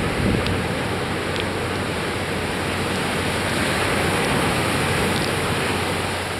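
Heavy surf from a rough sea just after a typhoon: a steady rushing wash of breaking waves, growing a little louder about four seconds in.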